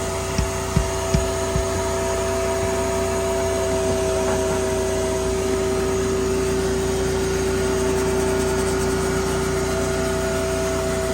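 A motor running steadily with a constant hum. A few short low knocks come in the first second and a half.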